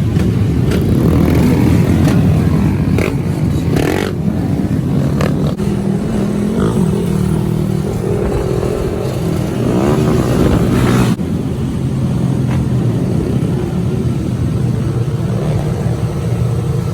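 Several small motorcycles and dirt bikes riding in a group, their engines revving up and down. The sound changes abruptly about eleven seconds in.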